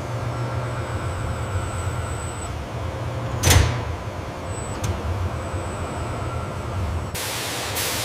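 Steady low machinery hum with a thin high whine, one loud thud about three and a half seconds in, and a hiss of noise that starts near the end.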